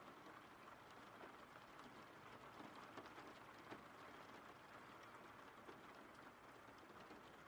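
Faint, steady rain ambience: an even hiss of rainfall with scattered drop ticks.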